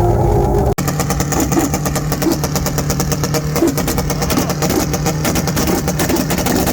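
A car engine running until an abrupt break just under a second in, then a fast, continuous stream of pops and crackles from an engine held on a two-step launch-control rev limiter.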